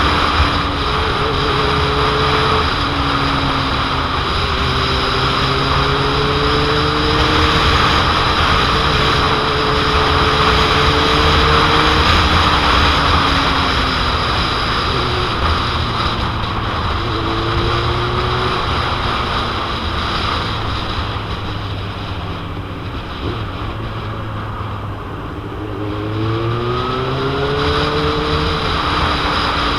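Heavy wind noise buffeting the microphone over a 2001 Suzuki GSX-R750's inline-four engine, whose pitch rises and falls as the rider works the throttle in traffic. The engine eases off about two-thirds of the way through, then climbs in pitch again near the end.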